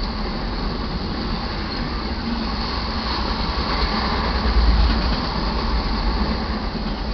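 Auto carrier freight train rolling past, its wheels running on the rails in a steady rumble that swells for a moment about two-thirds of the way through.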